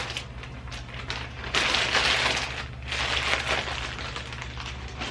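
Crinkling and rustling of packaging being handled in two bursts, a longer one followed by a shorter one, over a steady low hum.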